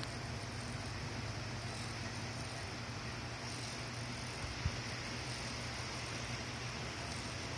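Steady low hum with an even hiss, typical of a lightbar's rotator motors running, with one sharp click about four and a half seconds in.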